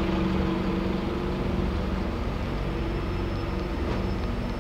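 Road traffic noise: a nearby vehicle engine running steadily with a low hum, under a constant hiss of road noise.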